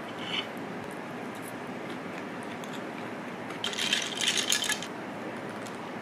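A quick clinking rattle of small hard objects, about a second long, a little under four seconds in, over a steady low hiss.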